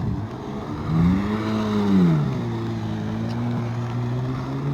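An engine blipped: it revs up about a second in, drops back to a steady idle, and starts revving up again near the end.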